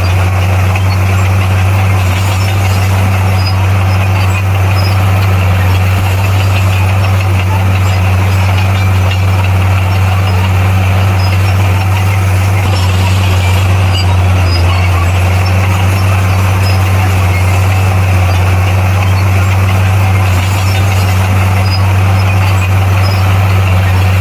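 Heavy diesel engine of earthmoving equipment running at a steady speed, a constant low drone that holds unchanged throughout.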